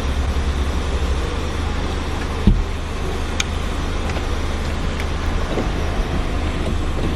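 Steady mechanical running noise, a low hum under an even rushing sound, with a single thump about two and a half seconds in.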